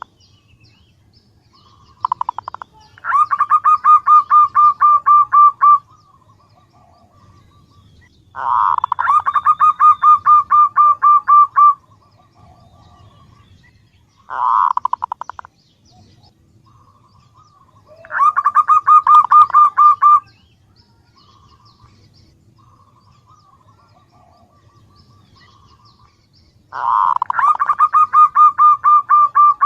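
Female zebra dove (perkutut) calling to a male: five bursts of fast, evenly repeated trilling notes, each a few seconds long, separated by pauses.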